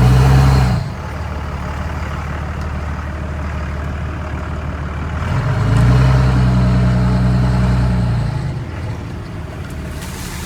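24-valve Cummins inline-six diesel running as the truck drives, heard from inside the cab. It gets louder briefly at the start and again for about three seconds midway, as the engine pulls harder, then settles back.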